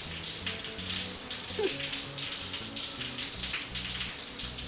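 A steady pattering hiss made of many tiny ticks, such as rain falling.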